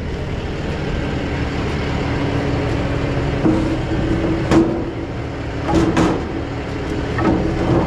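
A truck engine running steadily, with a steady hum that comes in about halfway. A few short sharp knocks sound over it.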